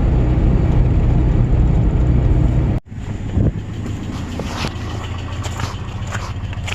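Vehicle running with a steady low rumble that cuts off suddenly about three seconds in, followed by a quieter steady low hum with scattered short noises.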